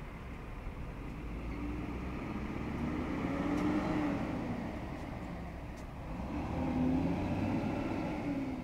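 Road vehicles passing by, each swelling and fading with a low engine note that rises and falls, twice, over a steady traffic rumble.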